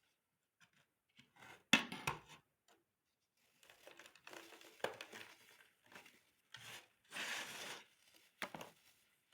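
Baking soda crunching as it is crushed: a sharp crunch about two seconds in, a spell of gritty crumbling, then a longer crunch and a final short one near the end.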